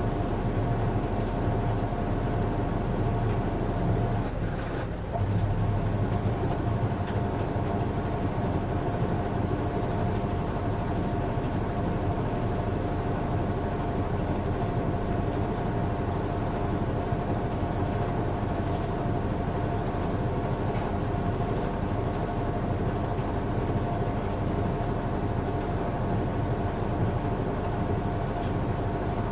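Washing machine running a strong cycle: a steady motor hum and rumble with a constant whine over it, dipping briefly about five seconds in.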